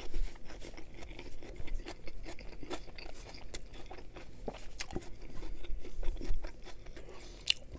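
Close-miked chewing of a mouthful of chicken Caesar wrap: wet mouth sounds with irregular small crunches and clicks.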